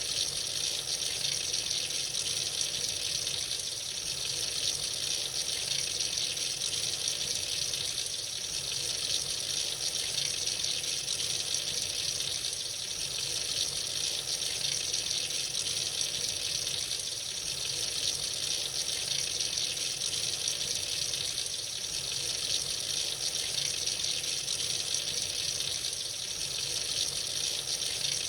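Tap running freely into a sink, a steady, unbroken gush of water.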